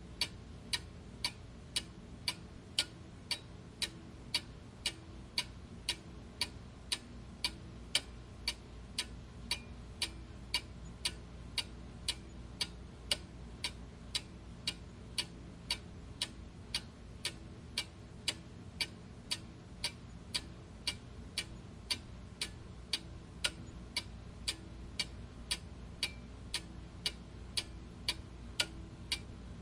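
Clock ticking steadily at about two ticks a second, in an even tick-tock rhythm, over a faint low hum.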